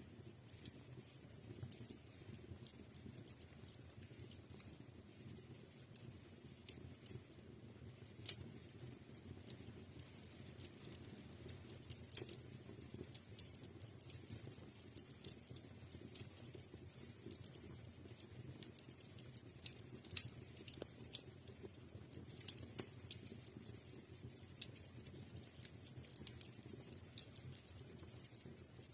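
Wood fire crackling in a fireplace: irregular snaps and pops, a few louder ones, over a soft low rush of burning.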